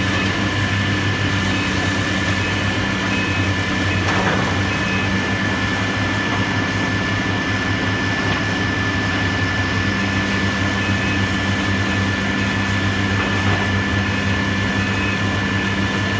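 Heavy demolition machinery engine running steadily, a low continuous hum with a constant high whine over it.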